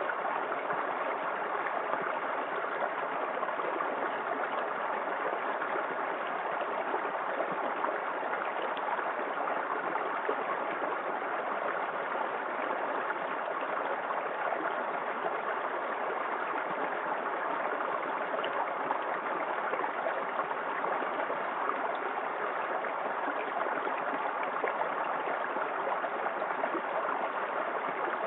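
Small waterfall in a forest creek, water pouring and splashing in a steady, even rush.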